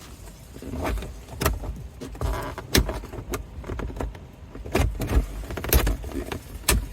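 Plastic dash side trim panel of a 2020 Toyota 4Runner being pried loose: a series of sharp clicks and knocks as the clips give, with a brief scrape of plastic in between.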